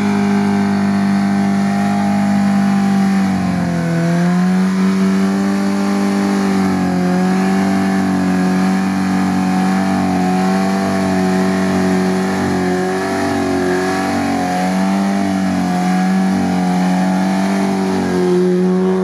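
Chevrolet Niva's engine held at high revs under load as the SUV claws up out of a muddy ditch on a taut winch line, its pitch sagging briefly about four seconds in and then holding steady.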